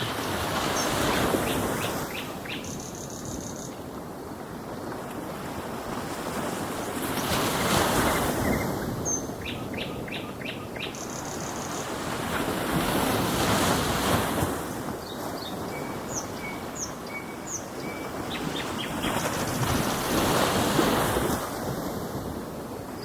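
Ocean waves washing in, swelling and fading about every six seconds, with small birds chirping in short quick runs between the swells.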